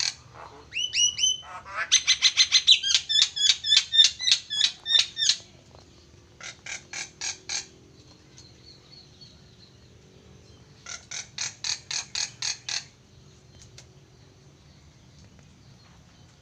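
Starling (jalak) singing: a few sliding whistled notes, then phrases of rapid, evenly repeated notes, about five a second. The first phrase is the longest and loudest, followed by a short one and, after a pause of about three seconds, a third.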